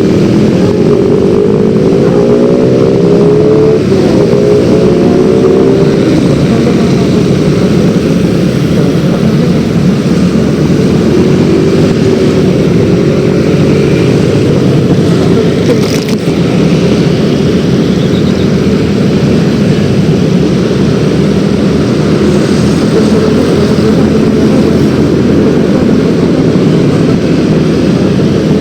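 A Yamaha X-Ride 113cc scooter's single-cylinder engine running while riding, under a heavy steady rush of wind and road noise. The engine note rises as it accelerates in the first few seconds and again about halfway. There is one sharp click a little past halfway.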